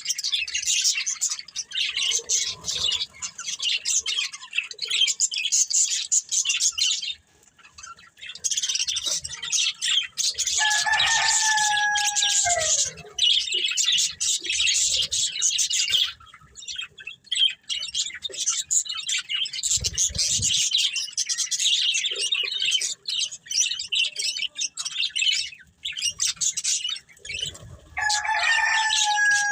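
Budgies chattering and chirping continuously in rapid, high-pitched warbles, with a few brief pauses. Twice, about eleven seconds in and again near the end, a longer, lower call holds its pitch and then slides down.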